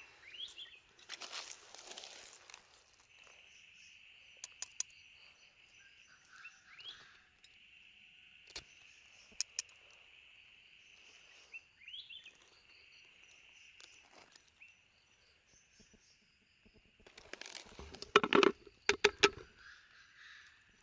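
Night insects trilling in a steady high chorus that stops and starts, with three short rising calls. Two spells of rustling and handling noise, the louder one near the end, and a few sharp clicks.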